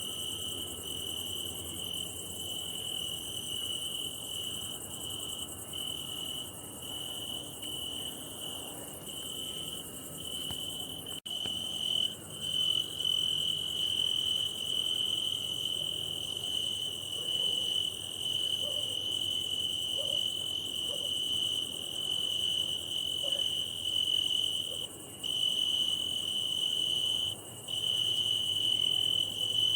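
Crickets singing, a continuous high-pitched trill made by rubbing the forewings together. The song turns abruptly louder about eleven seconds in, then breaks off briefly a few times near the end.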